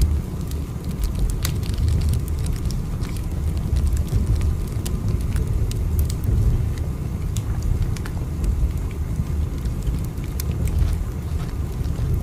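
Steady low train rumble, with faint scattered clicks and crackles over it.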